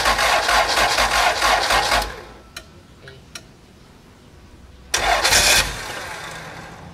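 Honda H22A four-cylinder VTEC engine cranking on its starter motor without catching: a long crank that stops about two seconds in, then a second, shorter crank attempt about five seconds in that dies away. The engine is not yet firing after the swap.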